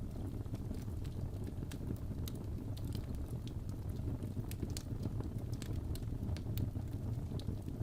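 Wood fire burning in a fireplace: a steady low rumble with frequent, irregular sharp crackles and pops from the burning wood.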